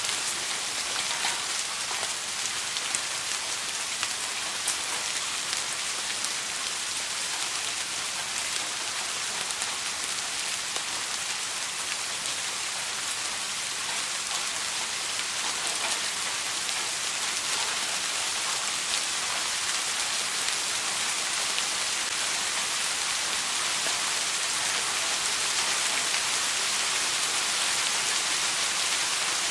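Steady rain falling on a surface, an even hiss with scattered drop ticks, growing slightly louder near the end.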